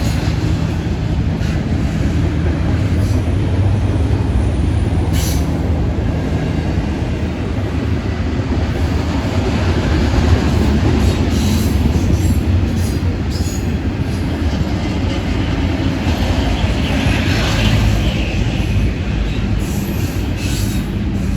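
Freight train of intermodal cars rolling past at speed: a steady rumble of steel wheels on rail, with scattered sharp clicks.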